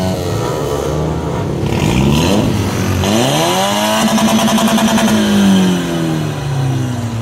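A car engine revved hard while standing. One rev falls away near the start, then a long rev climbs about three seconds in, holds high with a fluttering for about a second, and drops away near the end.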